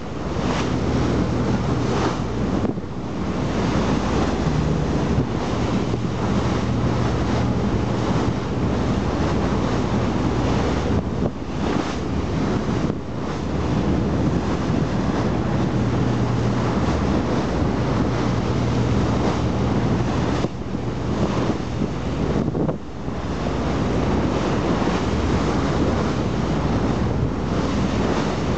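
Wind buffeting the microphone over the open sea, a loud rushing noise with a steady low drone beneath it and a few brief dips.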